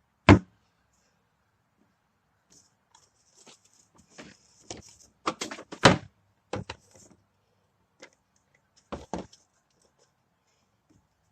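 Scattered knocks and clatters of empty plastic oil bottles and rubbish being handled and thrown away. One loud thump comes right at the start, a cluster of knocks follows around the middle, and two more come later.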